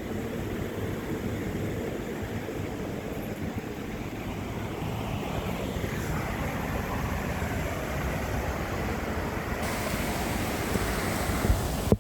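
Steady rushing noise of a waterfall and stream, with wind buffeting the microphone in uneven low rumbles.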